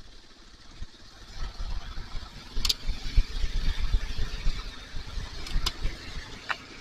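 Wind buffeting a helmet microphone in gusts, a low rumble with hiss, over a Kawasaki KLR motorcycle running down the road. The buffeting builds about a second and a half in, with a few light ticks later on.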